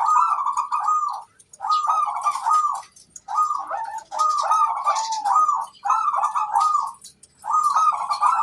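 Zebra dove (perkutut) cooing: about six short, bubbly phrases, each around a second long, repeated with brief pauses. Fainter high chirps sound over them.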